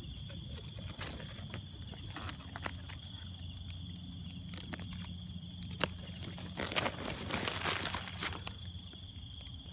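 Steady chorus of crickets and other insects, with scattered clicks and a louder stretch of rustling and crunching about seven to eight seconds in.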